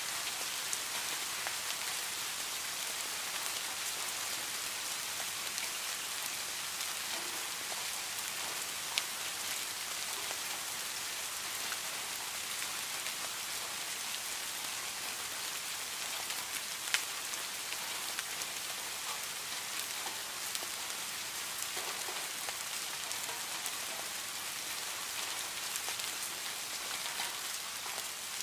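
Steady rain falling on leafy plants: an even, dense hiss with a few sharp, close drop ticks now and then.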